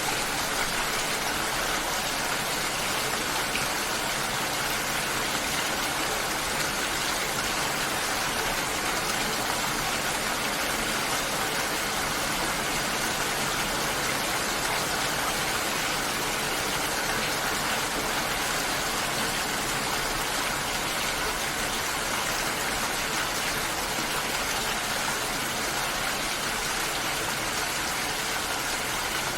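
Steady, even rushing of water with no change throughout.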